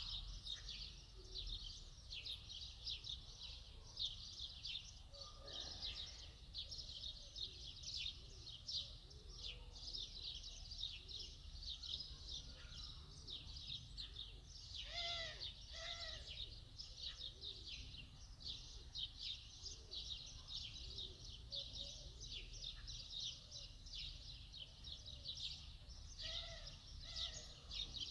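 Many small birds chirping continuously in a dense chatter, with a couple of louder two-note calls about halfway through and again near the end.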